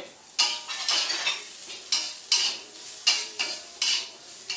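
A spatula scraping and stirring food in a frying pan, about two strokes a second, over the sizzle of frying oil.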